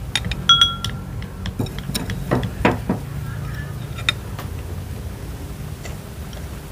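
Utensils clinking against bowls at a meal: a few sharp clinks in the first second, one with a short ring, then scattered taps, over a steady low hum.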